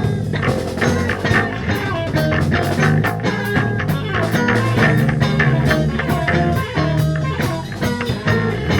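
Instrumental reggae band playing: electric guitar, bass guitar and drum kit, with a steady, even beat.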